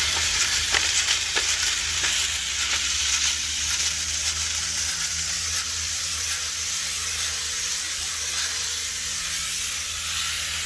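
Steady, loud hissing noise with scattered faint crackles, starting and stopping abruptly.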